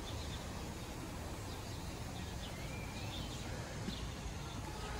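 Outdoor ambience: a steady low rumble of background noise with faint, scattered bird chirps, one a short rising call about halfway through.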